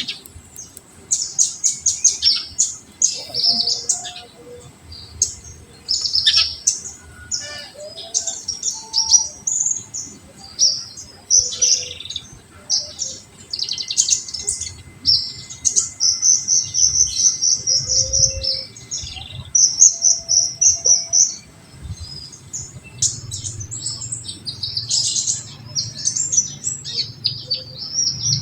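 Kolibri ninja sunbird singing a fast, high-pitched run of chirps and trills in near-continuous bursts: the full 'tembakan' song that keepers play to stimulate untrained birds.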